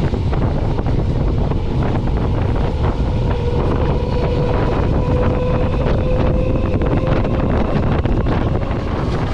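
Train passing close at speed: a steady rush of noise with rapid wheel clatter and wind buffeting the microphone, and a faint steady whine through the middle.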